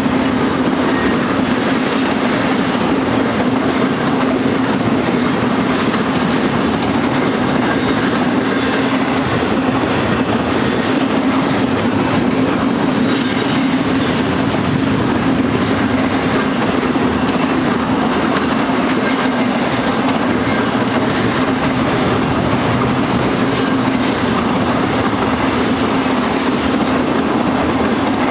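Cars of an intermodal freight train, loaded with truck trailers and double-stack containers on well cars, rolling past at trackside: a steady, loud noise of steel wheels on rail with a constant low hum.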